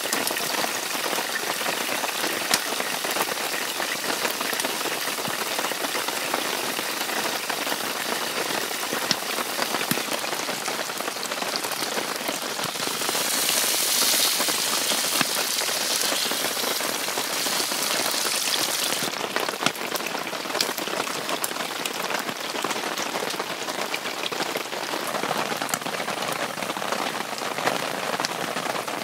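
Rain pattering steadily on the fabric of a tent, a dense haze of fine drop ticks. About halfway through, a brighter high hiss joins for several seconds and then stops abruptly.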